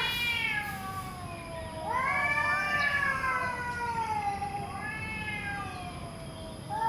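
Domestic cat meowing in long, drawn-out calls. The end of one call comes right at the start, then a long meow about two seconds in wavers and slides slowly down in pitch. Another meow begins at the very end.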